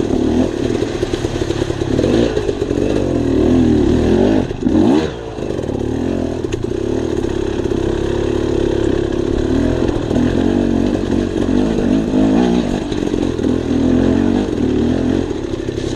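Dirt bike engine running while riding a trail, the revs rising and falling with the throttle, with a brief drop about five seconds in.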